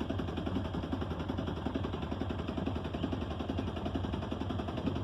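A boat's engine running steadily, with a rapid even pulsing.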